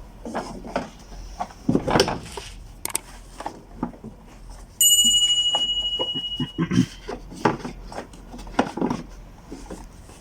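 Metal clinks and knocks of tools and parts during refitting of a car engine's valve cover, with one sharp ringing clang about five seconds in that dies away over about two seconds.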